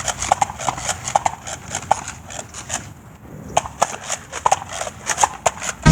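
A quick, irregular run of sharp plastic-sounding clicks and clacks, several a second.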